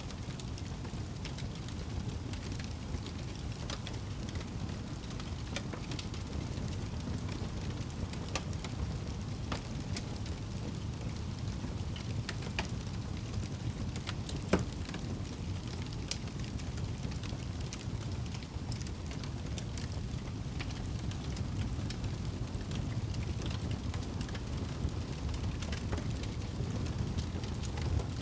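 Fire burning in a fireplace: a steady low rumble of flames with scattered sharp crackles, and one louder pop about halfway through.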